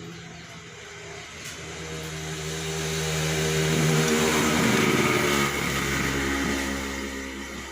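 Motorcycle engine running, growing louder to a peak about halfway through and then fading away.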